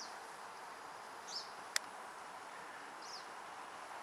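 Faint outdoor ambience with a steady hiss, through which a small bird gives a short high chirp twice, a little under two seconds apart. A single sharp click sounds near the middle.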